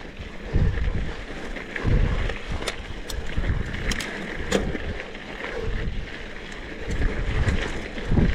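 Wind buffeting the microphone in uneven gusts over a steady vehicle rumble while riding, with a few scattered clicks.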